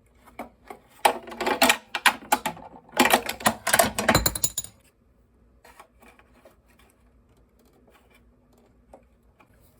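Small metal parts and tools being handled, with quick clicks and clattering for about the first five seconds, then only a faint hum until one more click near the end.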